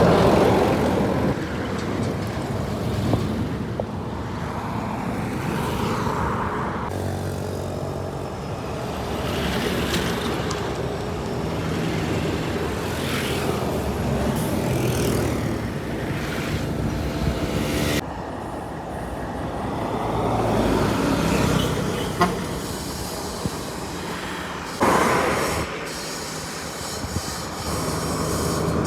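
Heavy truck engines running and passing, in several clips cut one after another, with sudden changes in the sound about 7, 18 and 25 seconds in.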